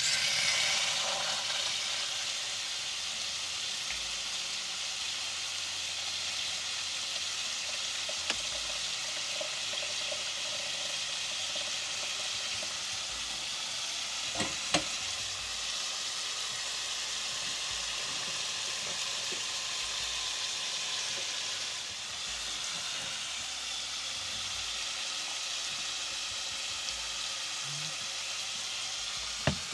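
Pork sausage patties sizzling steadily in a cast iron pan, with a couple of short knocks about eight and fifteen seconds in.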